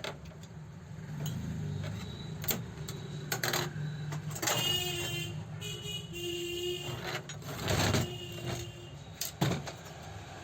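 Sharp metallic clicks and knocks at irregular intervals, typical of parts and tools being handled while a sewing machine is worked on, over a steady low hum. A pitched, squealing tone sounds twice in the middle.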